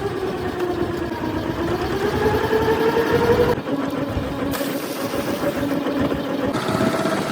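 Fishing boat's engine running steadily, its pitch drifting slowly up and down, with a low rumble beneath.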